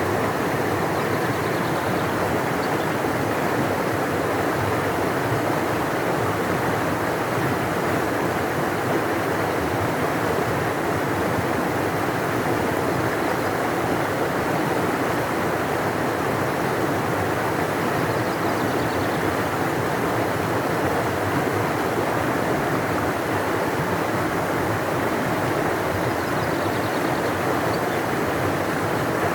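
A large river flowing, a deep, steady rush of water with no change in level.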